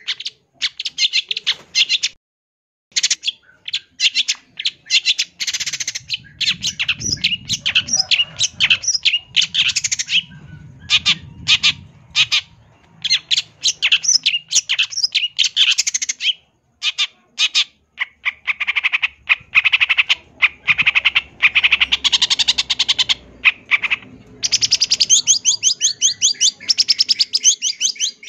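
Long-tailed shrike (cendet) singing a fast, varied song of rapid chattering and harsh notes in near-continuous runs, with brief pauses about two and a half seconds in and past the middle.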